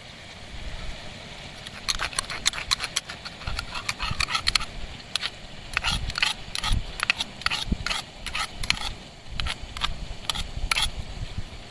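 Cooking utensils clattering and knocking against a pot in a quick, irregular run of sharp clicks, over a low wind rumble.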